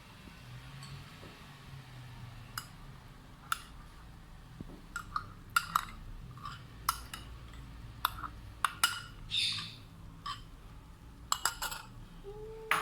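Spoon clinking and scraping against a bowl in a string of sharp, irregular knocks, as ghee is spooned into semolina and flour.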